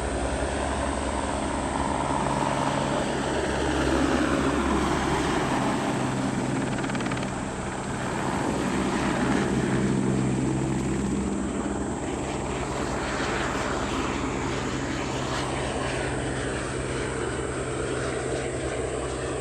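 Crop-spraying helicopter flying, its rotor and engine running steadily. The sound swells louder about four seconds in and again about ten seconds in as it passes.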